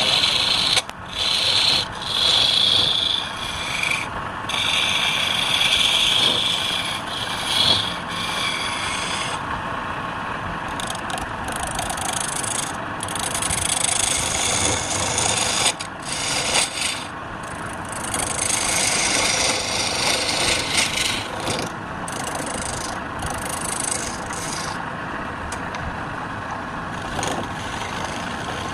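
Wood turning on a lathe with a tool cutting and scraping against the spinning wood: a continuous rasping noise whose sharper, higher part swells and drops out again and again as the tool is pressed in and eased off.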